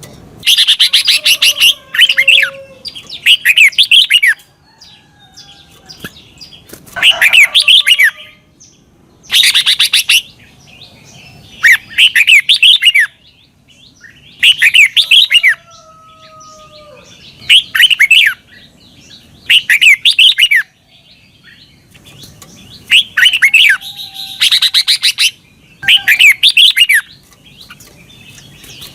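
Red-whiskered bulbul singing: short, loud, bubbly phrases about a second long, repeated about every two seconds, with faint whistled calls between them.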